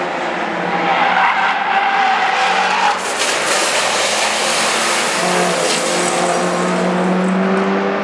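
Car tyres squealing in a skid on a race track for about three seconds, then a sudden rush of noise, then the engine running on with its pitch slowly rising.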